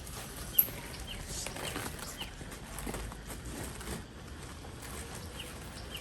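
Short, high, falling bird chirps repeated about every half second, pausing midway and returning twice near the end, with a sharp click about half a second in.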